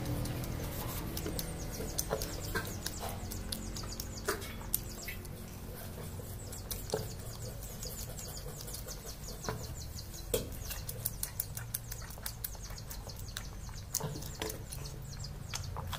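Close chewing and lip-smacking of a man eating water rice and boiled egg by hand: irregular wet mouth clicks, coming thicker in the second half, over a faint steady low hum.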